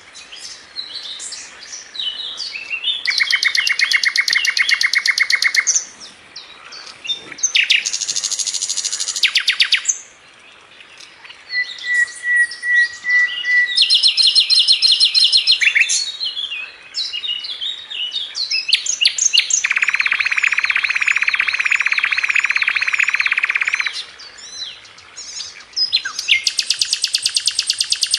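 Sikatan londo, a flycatcher kept as a songbird, singing a fast, dense song: several long, rapid rattling trills of two to four seconds each, mixed with short whistled notes, chips and warbles.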